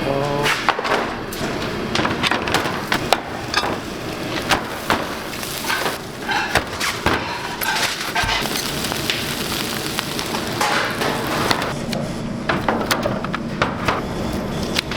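Restaurant kitchen clatter: frequent sharp knocks and clinks of utensils and dishes over a busy background hum.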